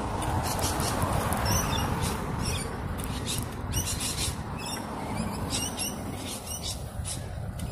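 Birds chirping repeatedly over a steady rumble of wind noise on the microphone.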